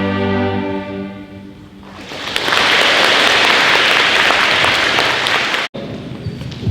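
A school string orchestra holds a final chord that fades away, then the audience applauds. About two seconds before the end the applause cuts off suddenly, leaving quieter room noise.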